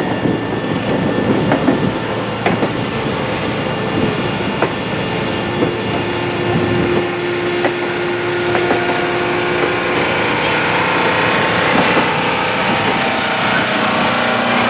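Train rolling past on the rails, a steady rumble with scattered clicks of wheels over rail joints.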